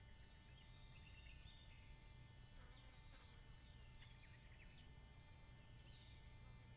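Near silence with faint, scattered bird chirps and short whistles over a low steady hum.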